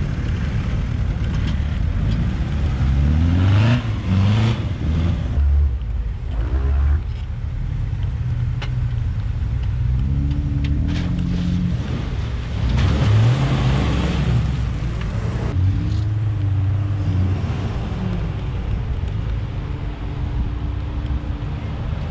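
Off-road vehicle engines revving up and down in repeated surges while pulling through loose sand pits under load; the later vehicle is a Jeep Wrangler Rubicon.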